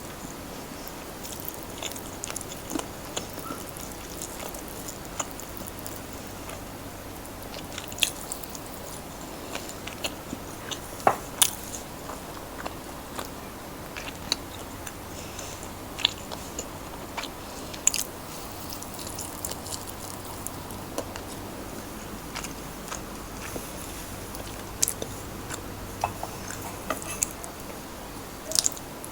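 Close-miked mouth sounds of eating fried chicken and fried rice: steady chewing with sharp, crunchy bites scattered throughout, the loudest a pair about eleven seconds in.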